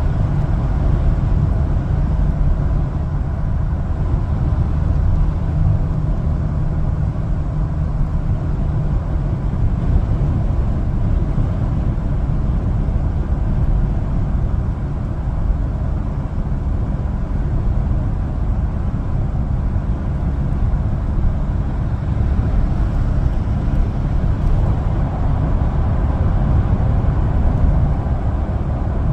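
One-ton LPG cargo truck driving steadily, its engine and road noise running evenly with no changes.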